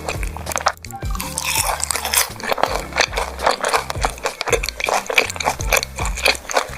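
Close-miked chewing and biting of grilled beef large intestines, with many rapid wet crunches and squelches over background music that has a steady low bass line. Just under a second in the sound drops out briefly, then the chewing resumes.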